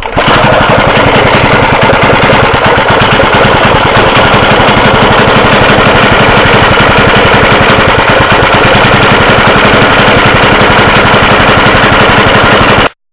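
Freshly rebuilt 75cc Suffolk two-stroke engine running steadily with rapid, even firing strokes. The sound cuts off abruptly near the end.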